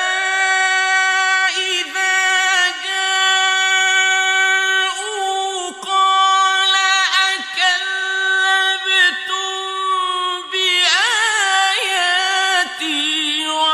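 Male Quran reciter chanting in the melodic mujawwad style, holding long, high notes with ornamented pitch turns and short breaths between phrases.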